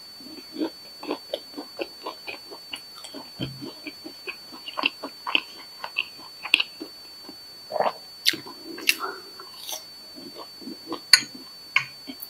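Close-miked eating sounds from a lapel mic: a person biting and chewing a fried snack, a dense run of small wet smacks and crunches, with a sharp click about eleven seconds in.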